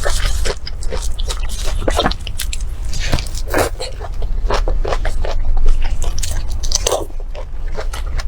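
Close-miked eating: biting and chewing food, with irregular crunches and wet mouth sounds throughout.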